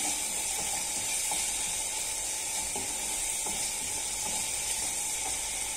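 Chopped onions, tomatoes and spices frying in oil in a nonstick kadai, with a steady sizzle and the soft scrape of a wooden spatula stirring them.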